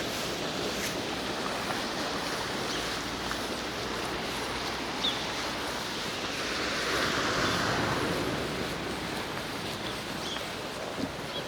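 Steady outdoor ambience, an even wash of noise, swelling briefly about two-thirds of the way through, with a faint short chirp about five seconds in.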